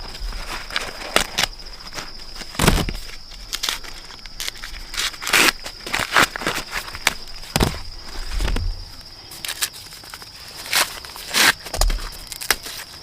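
Irregular dry crackles and rustles, many short ones and a few louder, over a steady high-pitched insect drone.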